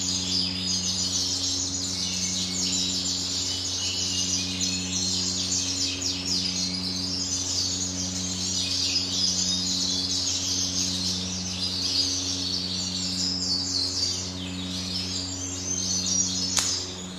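Many caged birds chirping and twittering at once, with no pause, over a steady low hum. A single sharp click comes near the end.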